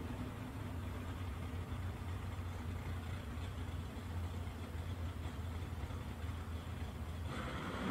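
Drag-racing Chevrolet Camaro's engine idling with a steady low drone as the car creeps toward the starting line; the sound grows brighter near the end.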